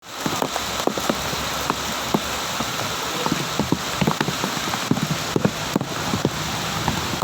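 Heavy rain falling: a steady hiss with many separate drops plinking, several a second.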